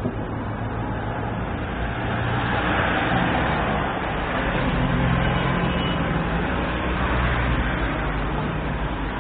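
Road traffic noise: a motor vehicle's engine running close by, getting louder about two seconds in and staying steady.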